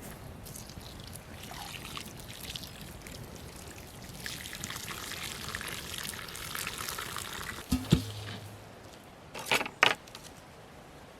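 Liquid being poured in a steady stream for a few seconds, then a knock and, near the end, two short loud clatters.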